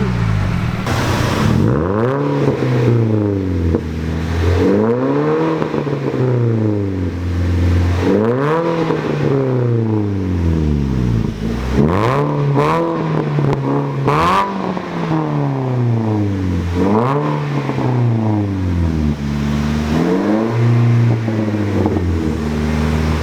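Car engine revved over and over, climbing in pitch and dropping back about every two seconds.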